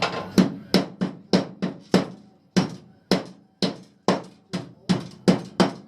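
Hammer blows on metal, a steady run of sharp strikes about three a second, each with a short ring, with a brief pause about two seconds in.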